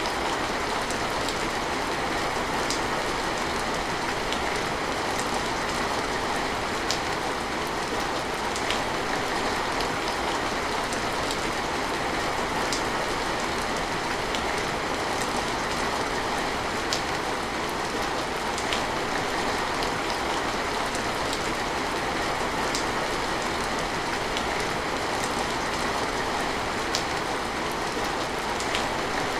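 Steady heavy rain, an even hiss with scattered sharp ticks of individual drops striking close by.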